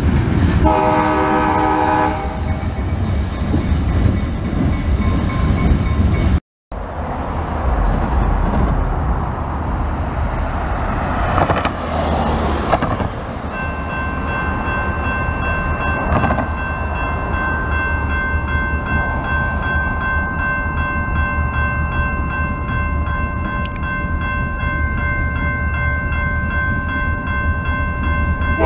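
Freight train cars rumbling over a grade crossing, with a short train-horn blast about a second in. After a cut, railroad crossing warning bells ring steadily from about halfway through as the gates come down for an approaching train.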